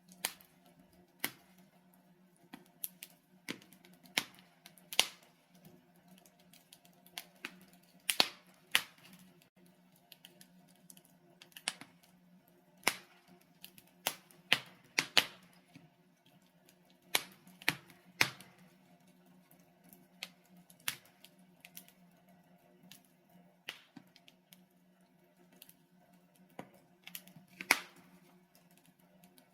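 Wood fire crackling in a fireplace: burning logs giving off irregular sharp pops and snaps, some much louder than others, over a faint steady low hum.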